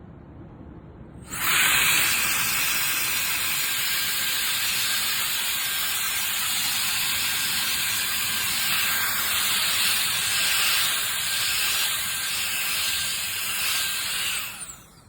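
Handheld electric air duster (K&F Concept BS400) switched on about a second in, blowing a loud, steady rushing hiss with a faint high whine from its motor, then switched off near the end.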